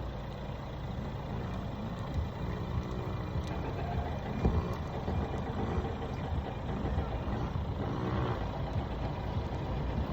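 Small motocross bike's engine running and revving up and down as it is ridden, with one sharp knock about four and a half seconds in.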